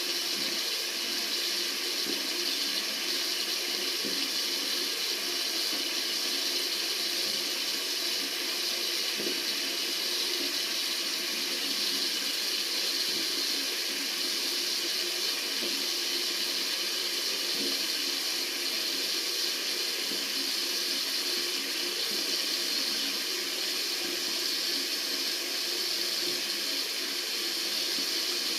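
Water running steadily from a tap, with an even hiss.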